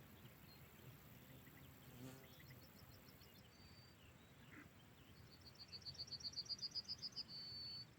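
A songbird singing over a quiet outdoor background: a fast run of repeated short high notes that grows louder, ending in one long held note. A fainter run of similar notes comes earlier.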